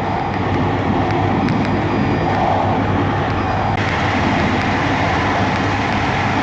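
Train rolling into the station, a steady rumble of wheels on rails with a few faint clicks; the sound grows a little brighter and hissier about four seconds in.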